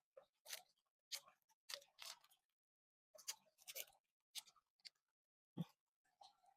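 Faint, irregular short crunches and clicks of someone chewing fruit, with a single low thump about five and a half seconds in.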